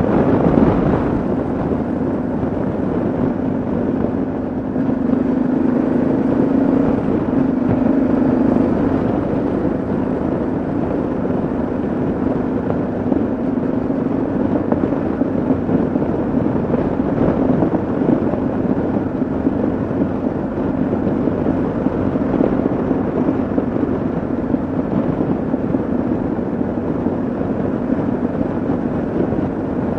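Single-cylinder engine of a Yamaha XT660Z Ténéré motorcycle running at a steady cruising speed under road and wind noise, its note a little stronger between about five and nine seconds in.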